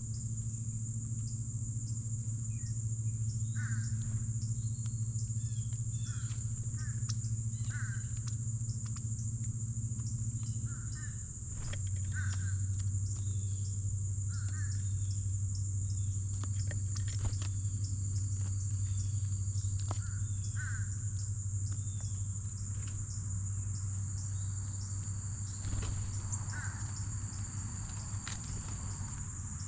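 Steady high insect chorus of crickets or katydids, with short bird chirps about one a second. Underneath runs a low steady hum that drops slightly in pitch about eleven seconds in.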